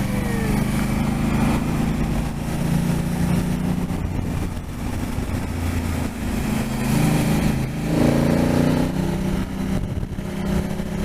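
Motorcycle engine running at steady road speed under wind and road rush, its note shifting about seven to eight seconds in.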